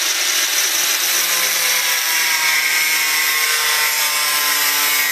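Power tool running steadily, with a high hiss and a faint whine that slowly drops in pitch, typical of a tool working metal during fabrication of custom exhaust tips.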